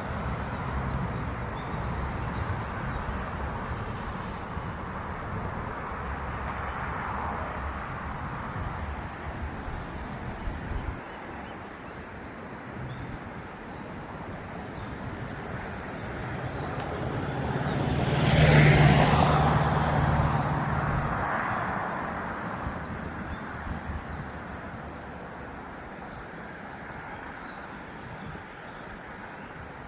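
Road traffic: a vehicle passes close by, growing louder to a peak about two-thirds of the way through and then fading, over a steady background of traffic. Short bird chirps come and go over it.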